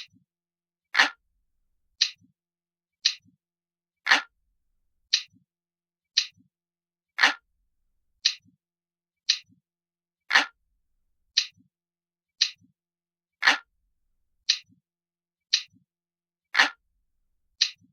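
Ticking clock sound, one sharp tick about every second, with every third tick deeper and fuller than the two thinner, higher ticks between.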